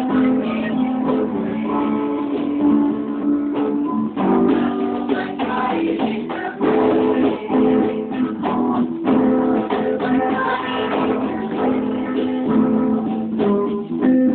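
Unplugged band playing a song, led by strummed acoustic guitar, with steady chord strokes throughout.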